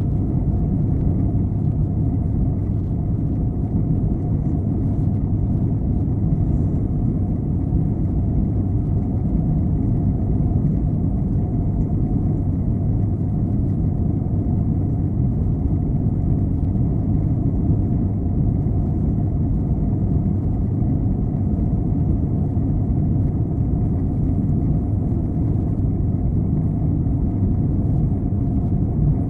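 Steady cabin rumble of an Airbus A321-211 in flight, the low roar of its engines and the airflow heard from a window seat near the rear. The noise holds even throughout, with no change in pitch or level.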